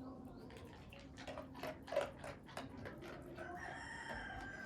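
A dog eating a treat or food, with a string of quick faint crunching clicks, then a drawn-out high call held for about a second near the end.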